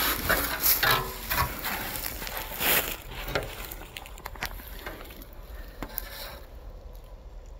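Scraping, rustling and a few sharp clicks as the dug-up sign with many holes is handled and turned over, stopping about six seconds in.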